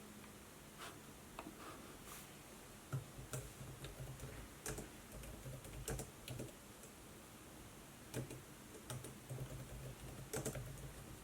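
Typing on a laptop keyboard: irregular bursts of soft key clicks, with a pause around 7 to 8 seconds in, over faint steady hiss.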